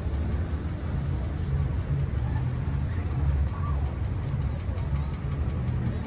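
Steady low rumble of a car engine idling or creeping along, heard from inside the car's cabin.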